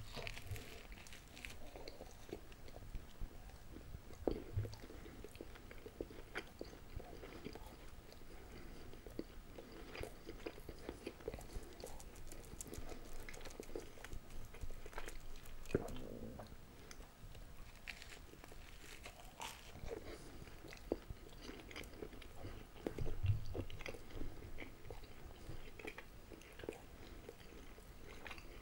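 Close-miked biting and chewing of a breakfast sausage folded in toast with sauce: crunchy bites into the toast, then chewing full of small wet clicks and crackles, with a few louder bites between spells of chewing.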